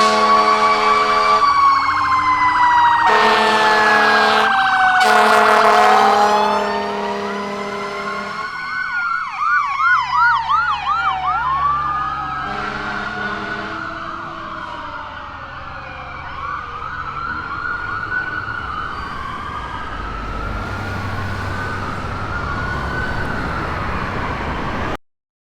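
Fire trucks and an ambulance responding with sirens: slow rising-and-falling wails, with blasts of an air horn in the first six seconds and a rapid yelp about ten seconds in. The sirens grow fainter as the vehicles move off, and the sound cuts off abruptly near the end.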